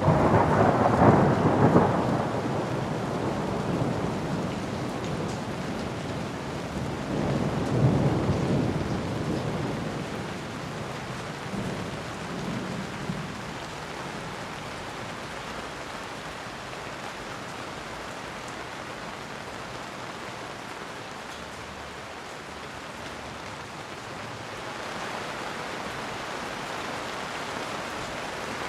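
Steady rain with thunder: a sudden loud clap right at the start, rumbling for about two seconds, and a second rumble about seven seconds in that fades away over a few seconds, then rain alone.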